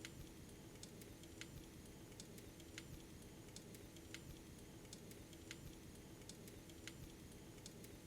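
Faint wood fire crackling: irregular small sharp pops, several a second, over a steady low hum.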